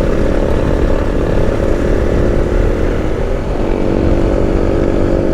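Motorcycle engine running steadily at speed, with heavy low wind rumble; the engine note shifts slightly a little past halfway.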